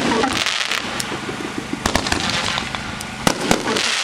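Winda 'Trick Shot' 500-gram consumer fireworks cake firing. Sharp reports come in close pairs about two seconds in and again near three and a half seconds, over a continuous crackling hiss.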